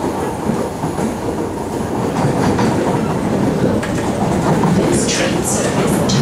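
Cabin rumble of an SMRT C751B electric train running along the track, with clicks of the wheels over the rails. Near the end, several short high-pitched squeals come in.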